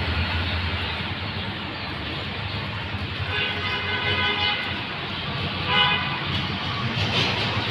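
Steady road traffic noise, with a pitched tone lasting about a second, starting a little after three seconds in, and a shorter one near six seconds.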